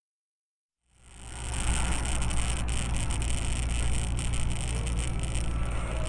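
Silence, then about a second in a moving car's engine and road noise fades in and runs steadily, with a strong low rumble.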